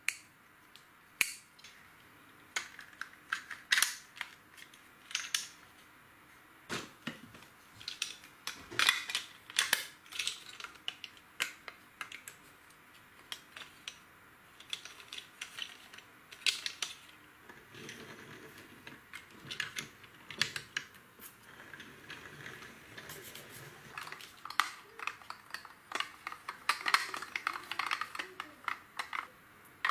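Plastic LEGO pieces clicking and clattering as they are handled, a run of irregular sharp clicks with some soft rustling in the middle.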